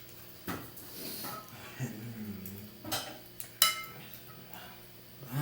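Cutlery clinking against dishes during a meal: a few sharp clinks, the loudest a little after three and a half seconds, with a short low voice sound around two seconds in.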